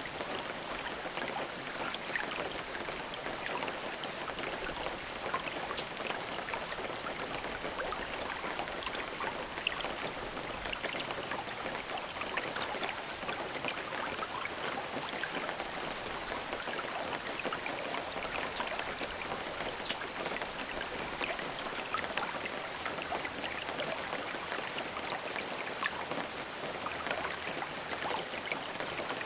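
Steady rain falling, a dense hiss of many small drop ticks striking a surface, with no thunder.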